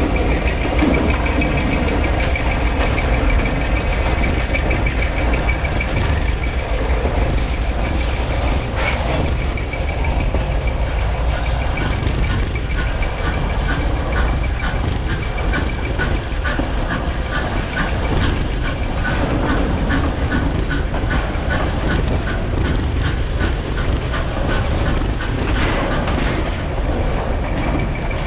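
A train rolling slowly past on the rails with a steady low rumble. About halfway through, a run of even clicks from the wheels over the rail joints sets in, along with short high wheel squeals repeating about once a second.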